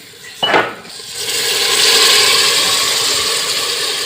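A sharp clatter, then a loud steady hiss from the cooking pot that swells about a second in and slowly eases.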